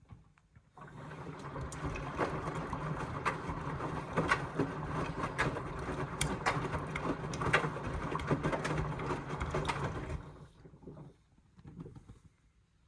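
Indesit washing machine turning its drum during a rinse on the down-jacket programme: a steady motor hum with water sloshing and the jackets tumbling, with small clicks throughout. It starts about a second in, runs for about nine seconds, then stops, with two short fainter sounds after.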